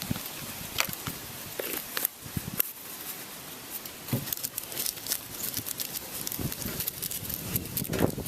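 Camp cooking gear being handled while coffee is made: scattered clicks, taps and rustles.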